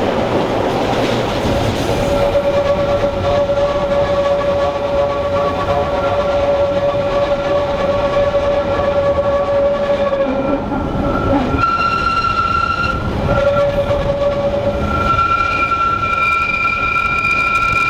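Rhaetian Railway train running on the Bernina line, with a long steady wheel squeal over the running noise for several seconds, then a higher-pitched squeal in two stretches near the end.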